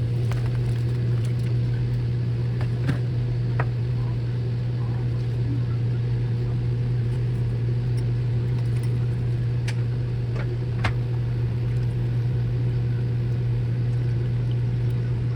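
A steady, unbroken low drone with a few faint clicks.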